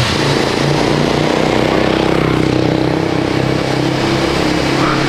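A small engine running steadily at one speed, with a constant low hum.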